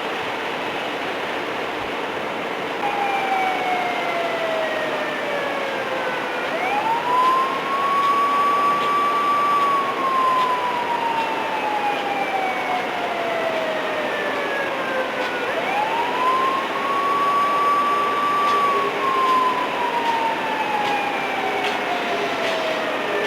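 A siren wailing in slow cycles. Each cycle climbs quickly to a high pitch, holds it for a few seconds, then slides slowly down, repeating roughly every nine seconds over a steady background noise.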